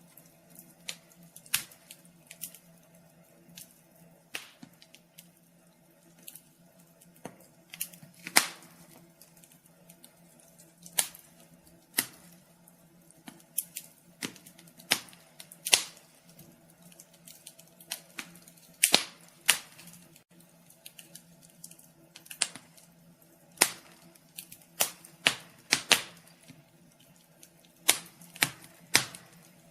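Wood fire crackling in a fireplace: irregular sharp pops and snaps, some much louder than others.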